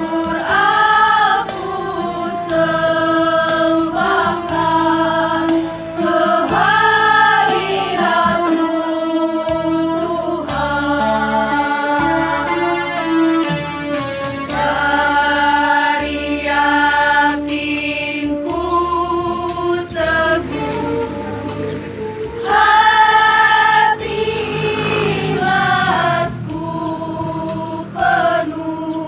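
A choir singing in harmony, several voice parts holding long notes together and moving from chord to chord.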